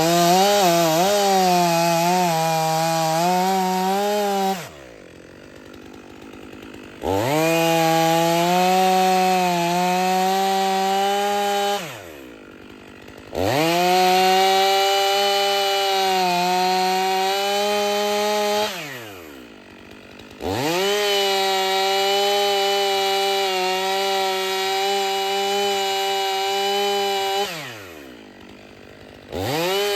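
Two-stroke chainsaw run at full throttle through four long cuts, its pitch sagging slightly under load. Between cuts it drops back to idle for a second or two.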